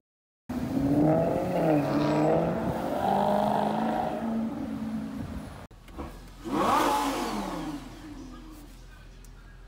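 Sports car engine revving and accelerating, its pitch climbing and dropping through gear changes, after a brief silence at the start. After a sudden cut a second loud engine surge comes in with a falling pitch, as a car speeding past, and fades away.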